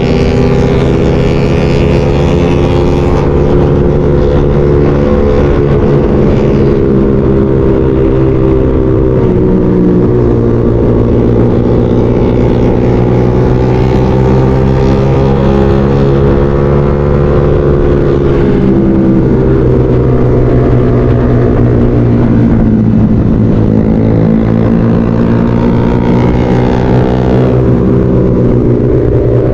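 Motorcycle engine running steadily under way, its pitch drifting gently up and down with the throttle. It dips about three quarters of the way through, then climbs again near the end.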